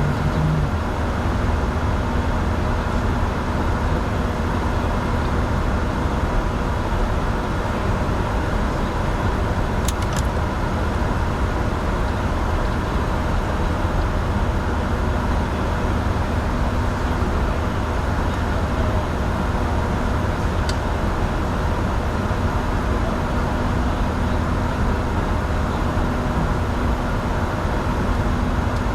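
Steady cabin noise in the cockpit of a Bombardier Challenger 605 jet in flight: an even rush of sound with a low steady hum. There are a couple of faint ticks, one about ten seconds in and one about twenty-one seconds in.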